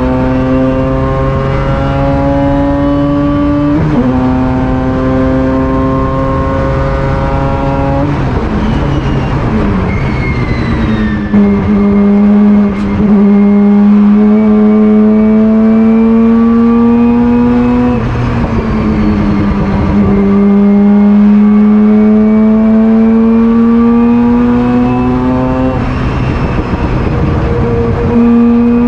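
Mazda race car engine running hard under load, its pitch climbing slowly through each gear and dropping sharply at each gear change, about seven times.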